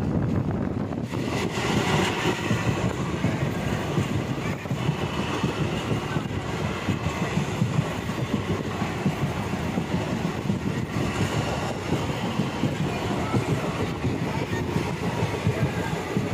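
Moving passenger train running steadily along the track, the wheels rumbling and rattling on the rails, heard from the open doorway of a coach.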